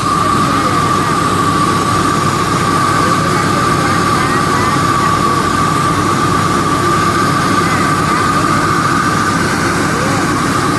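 Rice milling machine running steadily: a loud mechanical drone with a constant high whine over it.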